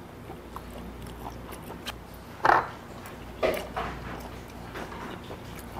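A person chewing raw beef, with small wet mouth clicks, and two short breathy sounds about a second apart near the middle.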